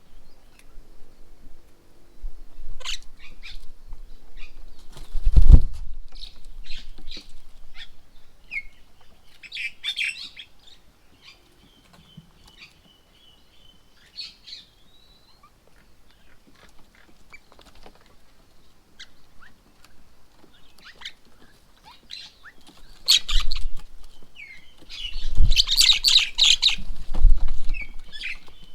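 Birds at a feeding table: scattered short chirps and calls, with wing flaps and thumps as birds land and take off. A heavy thump comes about five seconds in. Near the end there is a loud flurry of calls and flapping.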